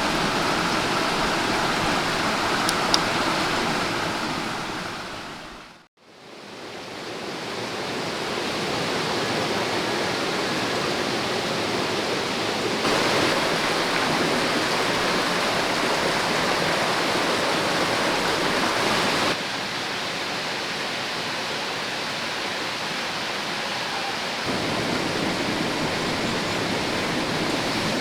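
Clear mountain stream rushing over rocks, a steady wash of water noise. It fades out completely about six seconds in, fades back up, and later jumps up and down in level a few times.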